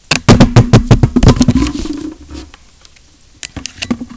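A fast run of loud, sharp clicks and clatter lasting about a second and a half over a low hum, with a few scattered clicks near the end.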